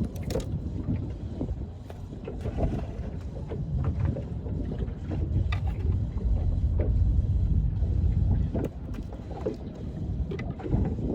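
Wind rumbling on the microphone over choppy water slapping and knocking against a small boat's hull. The rumble swells and is loudest in the middle, with scattered short knocks throughout.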